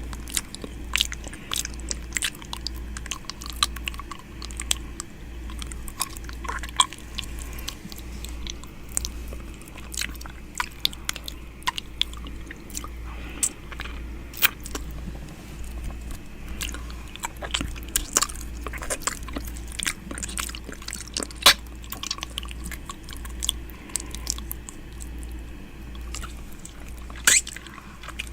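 ASMR 'ear eating' mouth sounds held right at the microphone: wet lip smacks, tongue clicks and licking in an irregular stream of sharp clicks, over a steady low hum.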